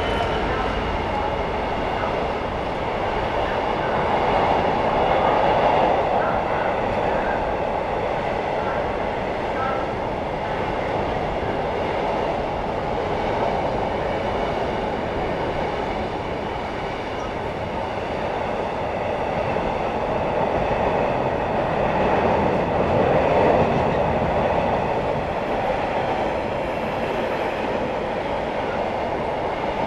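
Container freight train rolling past, its wagons running over the rails in a steady rumble with some clickety-clack, swelling twice.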